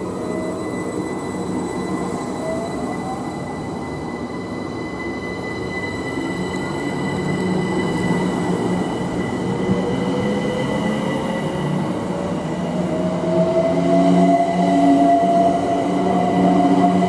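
A train running through the station, with a steady high whine and a tone that slowly rises in pitch, growing louder in the last few seconds.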